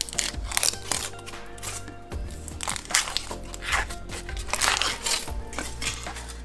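Packaging being crinkled and torn open by hand in repeated rustling bursts, over background music with a steady low beat.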